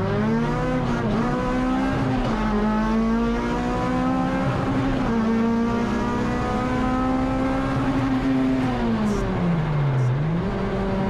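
Honda K24 four-cylinder engine of a Civic EG race car at high revs under racing load. The pitch climbs in the first second and holds high with small dips. Near the end it falls away for about a second and a half as the throttle comes off, then picks back up.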